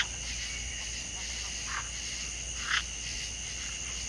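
A steady, high-pitched chorus of calling animals, with three short calls standing out from it: one at the start, one just under two seconds in, and one near three seconds.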